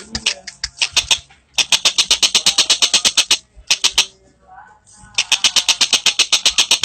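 Birds' rapid dry chattering calls, about eight to ten sharp notes a second. They come in bursts broken by short pauses, then run on without a break from about five seconds in.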